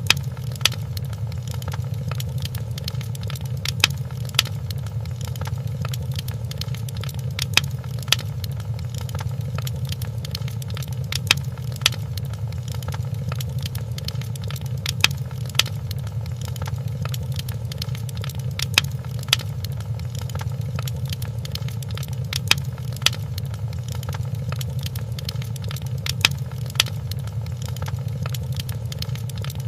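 Fireplace crackling: a steady low rumble with sharp pops, the pops coming in pairs about half a second apart and repeating evenly about every four seconds.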